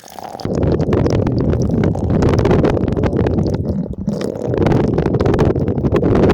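Loud, muffled rumbling and gurgling of stream water close against the phone's microphone, starting suddenly about half a second in, with a brief dip near four seconds.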